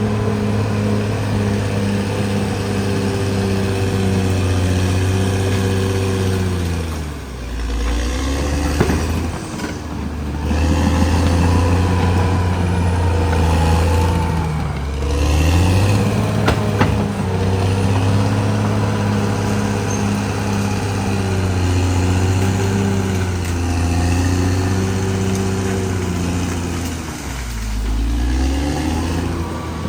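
Diesel engine of a Caterpillar D6R XL bulldozer running hard, its engine speed sagging and climbing back three times: about seven seconds in, around fifteen seconds, and near the end. A few sharp knocks are heard.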